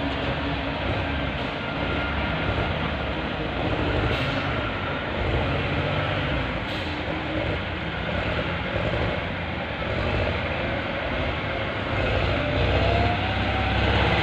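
Heavy truck running steadily, its engine rumbling low under continuous driving noise.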